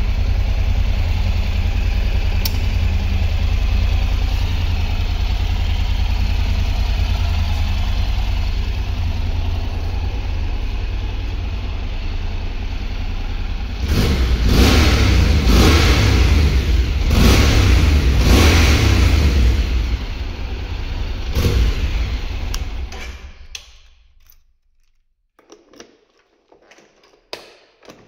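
Honda NC750X's parallel-twin engine idling steadily, then revved in four or five short throttle blips and once more a little later. It is then switched off and dies away, with a few small clicks of the ignition key near the end.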